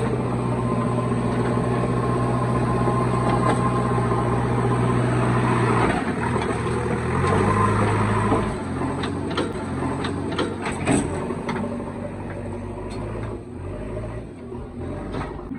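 Heavy diesel engine running steadily at raised revs, then dropping in pitch about six seconds in and varying as the load changes, with a few sharp clanks between about nine and eleven seconds.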